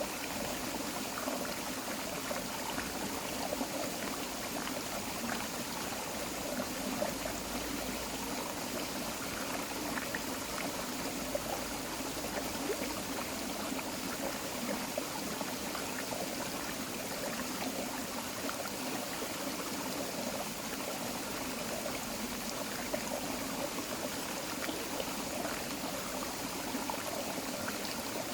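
Creek water running steadily over rocks, a continuous burbling and trickling.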